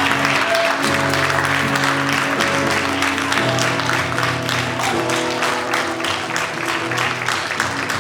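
Congregation clapping over instrumental church music, with long held chords over a moving bass line.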